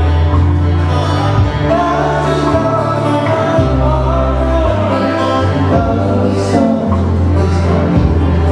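Live Hawaiian music: a band playing, with a bass line stepping between held low notes and singing over it.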